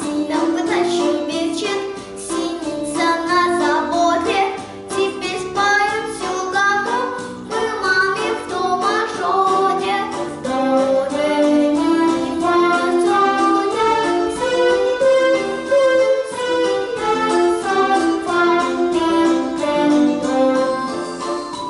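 A young girl singing a children's song with instrumental accompaniment.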